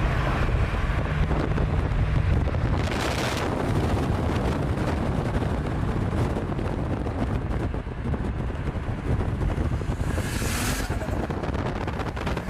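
Heavy wind buffeting the microphone over a car engine running hard, with two short hissy bursts, one about three seconds in and one near the end.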